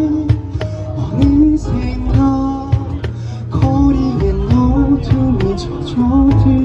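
Live band playing an instrumental passage: strummed guitars, bass and keyboard carrying a melody over a steady beat on the cajon.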